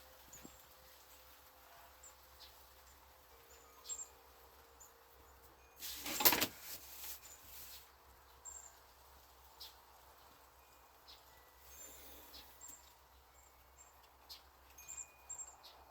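Faint backyard birds chirping in short, high calls every few seconds. Small taps and one brief, louder rustle about six seconds in come from handling paper, a ruler and a pencil while measuring out a card.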